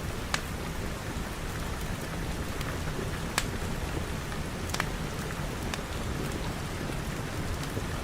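Steady rain, with a few sharp clicks or crackles standing out from the hiss, the loudest about three and a half seconds in.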